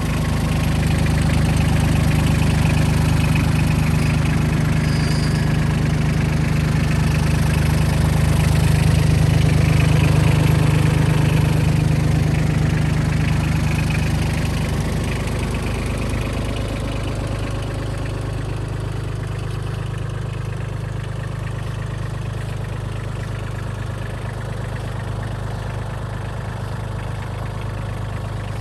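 Mitsubishi MRT-18 crawler tractor's diesel engine running steadily, becoming quieter about halfway through.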